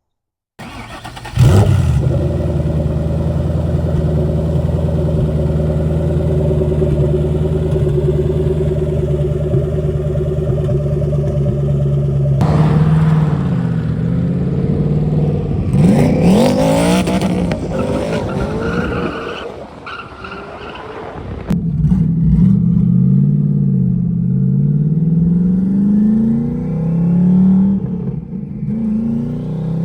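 Twin-turbo Gen 1 Coyote 5.0 V8 of a 2011 Mustang GT comes in loudly about a second and a half in and runs at a steady note for about ten seconds. It is then revved several times, the pitch rising and falling, dips briefly, and near the end runs with its pitch wavering up and down.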